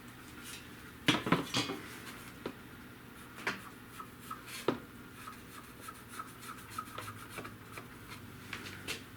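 Hands handling plastic taillight lens parts and tools on a workbench: a cluster of knocks and clatter about a second in, then scattered light taps and rubbing.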